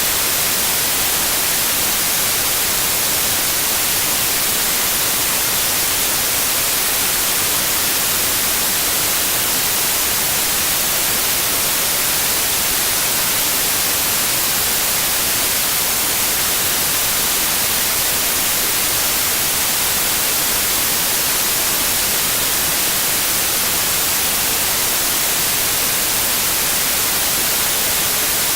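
Steady synthetic white noise: an even, bright hiss with no changes or breaks.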